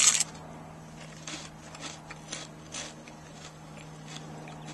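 A crunchy bite into a puffed rice snack at the start, then quieter crunching as it is chewed, a faint crackle every half second or so. A steady low hum runs underneath.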